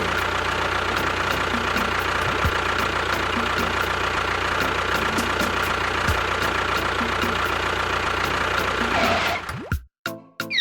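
Engine idling steadily with a regular knock a few times a second, cutting off abruptly near the end.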